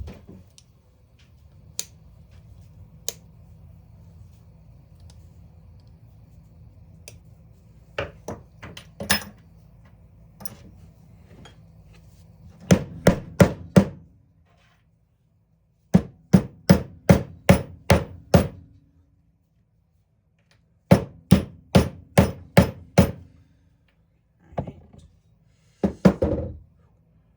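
Hammer blows struck in quick runs of five to seven, about three a second, with pauses between the runs and a couple of shorter runs near the end.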